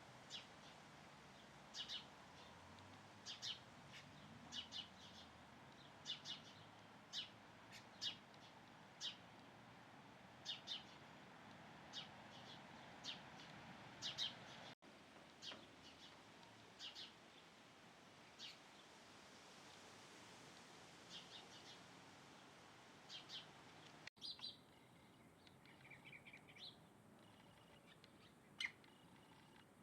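Small birds chirping: short, high, sharp chirps repeated irregularly, about one every second, over faint background hiss.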